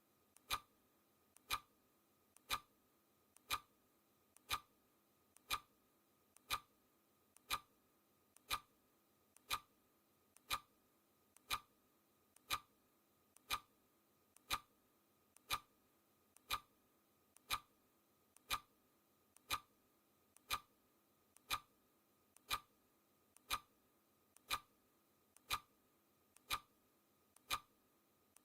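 Clock ticking once a second as a countdown timer's tick, each tick a sharp click with a faint click just before it.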